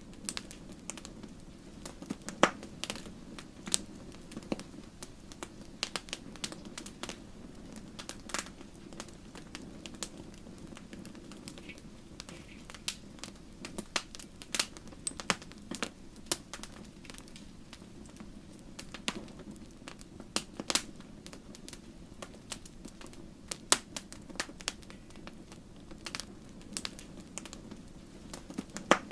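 Wood fire burning in a fireplace: logs crackling with irregular sharp pops and snaps, a few louder ones, over the low steady rush of the flames.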